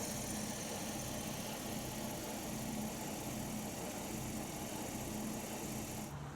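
Land Rover Discovery 5's 3.0 L supercharged V6 idling steadily. Just before the end the sound changes abruptly to a quieter, lower hum.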